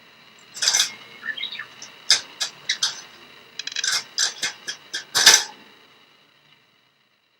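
Budgerigar tugging a wire cage's small feeding door with its beak, making it clink and clank about a dozen times in quick irregular knocks, the loudest about five seconds in.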